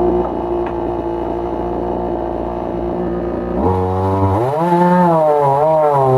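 Two-stroke chainsaw running in a log-milling rig, holding a steady note and then, about three and a half seconds in, revving higher, its pitch rising and dipping as it works through the cut.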